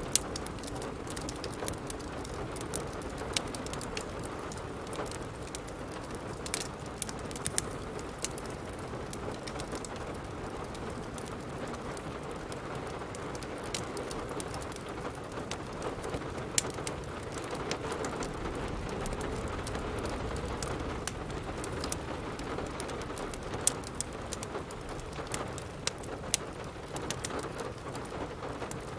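Steady rain with a wood fire crackling: a constant hiss of rain under irregular sharp pops and snaps.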